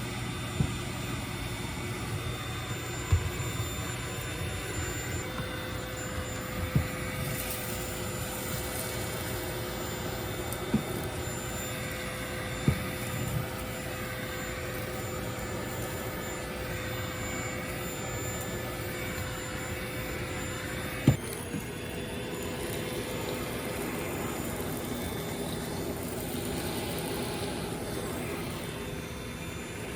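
Vacuum cleaner running steadily with a constant whine, its head knocking against things several times. About two-thirds of the way through, a sharp knock comes and the whine drops slightly in pitch.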